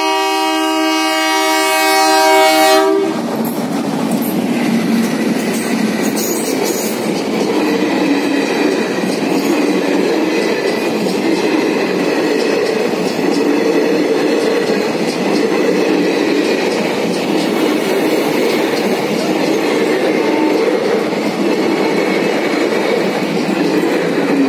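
Locomotive horn sounding one long blast that stops about three seconds in. Then a passenger train's coaches rush past close by at speed, with a steady rumble and the clatter of wheels on the track.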